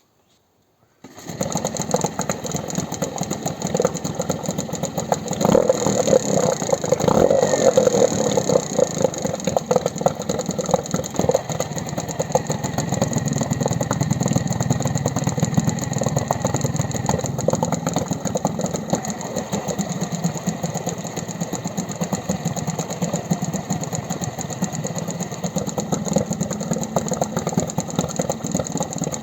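Outboard boat motor running, coming in abruptly about a second in, a little louder for a few seconds early on and then running steadily.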